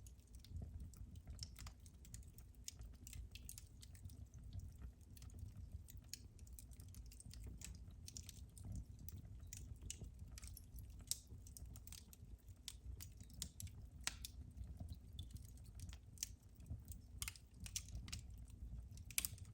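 Wood fire burning in a fireplace: irregular small crackles and pops over a low rumble, with a sharper pop near the end.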